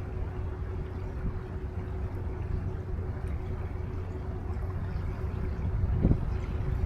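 Steady low engine rumble with a constant faint hum from a boat passing on the river, and a low thump about six seconds in.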